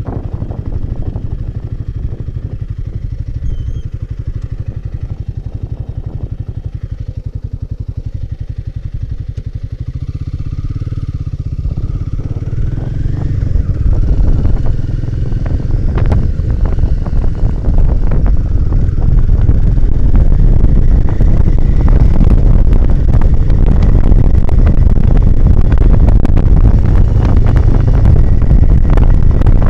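Royal Enfield Himalayan 450's single-cylinder engine running evenly at low revs, then accelerating from about ten seconds in and growing much louder, with wind rushing over the microphone near the end as speed builds.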